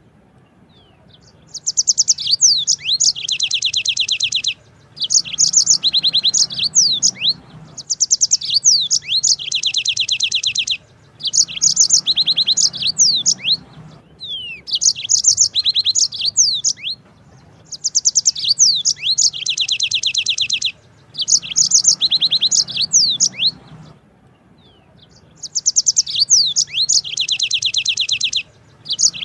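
Yellow-fronted canary (Mozambique canary) singing: repeated phrases of fast rolling trills with quick chirps, each phrase a couple of seconds long, separated by short pauses.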